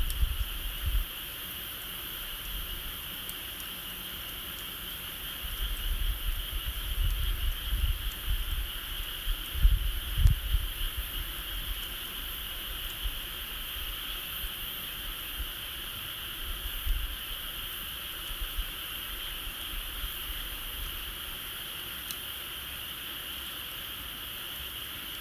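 Steady high chirring of an insect chorus, with gusts of wind rumbling on the microphone between about five and eleven seconds in and again briefly near seventeen seconds.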